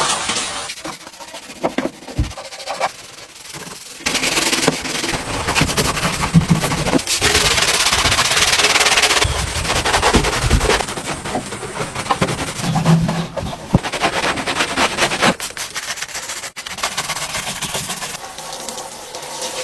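Rubbing and scrubbing noise from car-cleaning work, with no steady pitch. It changes abruptly several times, as one short clip cuts to the next.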